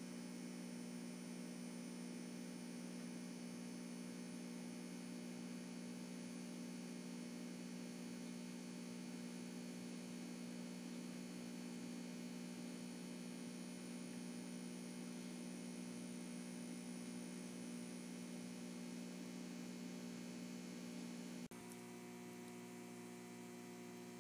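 Steady low electrical hum, with a brief break about 21 seconds in after which it carries on slightly changed.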